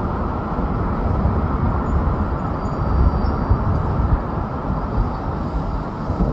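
Subway train running along the elevated Flushing Line structure, a steady loud rumble with irregular low thumps.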